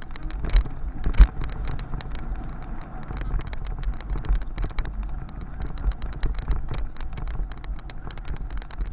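Bicycle riding over a road surface, with steady road and wind rumble and dense, irregular rattling clicks. There is a sharper knock about a second in.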